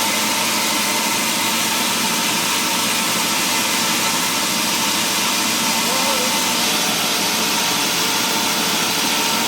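Woodworking factory machinery running steadily: a constant, even machine noise with no distinct cuts or impacts.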